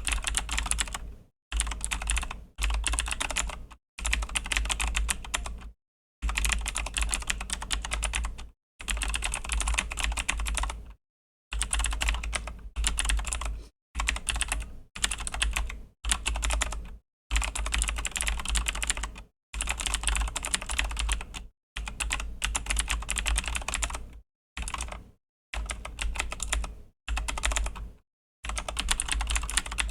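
Typing on a Razer BlackWidow V3 mechanical keyboard with clicky Razer Green switches: rapid key clicks in runs of one to two seconds, broken by short pauses.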